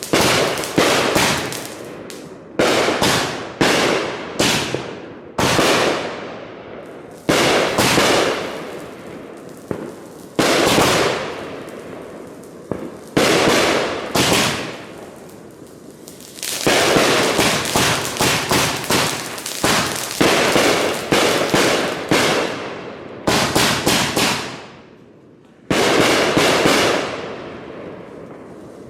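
Consumer fireworks going off in quick succession: sharp shots every second or two, each trailing into a fading crackle, with a dense volley in the second half.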